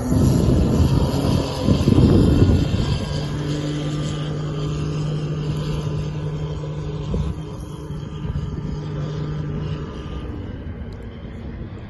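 Tohatsu 30 hp four-stroke outboard with an MSP flap exhaust running under power. It is loud and rough for the first few seconds, then settles into a steady drone that grows quieter near the end.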